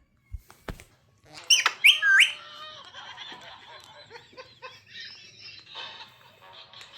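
Pet parrot giving a few loud, shrill squawks that slide in pitch, then softer, busy chattering calls. Two faint clicks come just before the calls start.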